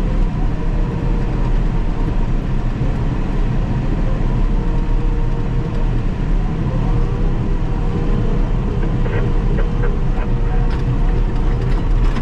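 Caterpillar D6K2 XL bulldozer's diesel engine running steadily while it works, with a steady whine over the engine, and a few light clicks and clanks in the last few seconds.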